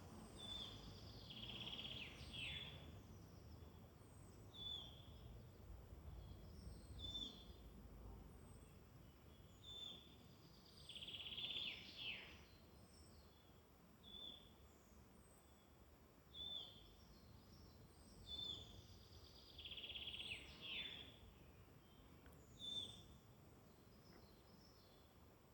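Woodland songbirds singing. One bird repeats a short high call every second or two, and another sings a longer trilled phrase ending in a downward sweep about every nine seconds, three times in all, over a faint low background rumble.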